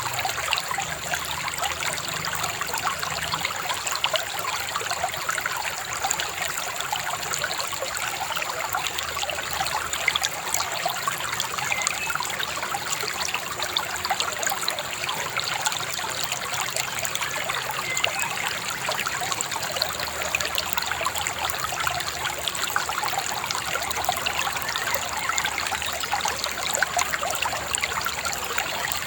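Shallow river babbling steadily over stones, an even, continuous gurgling and trickling.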